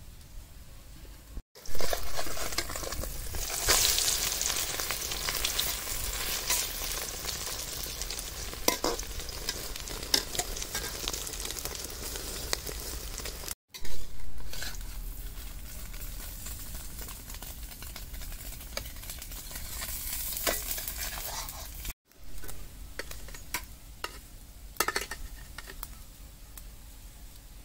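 Beaten eggs sizzling in hot oil in a steel wok, with a metal spatula scraping and clicking against the pan as the omelette is turned and lifted out. The sound cuts out briefly three times.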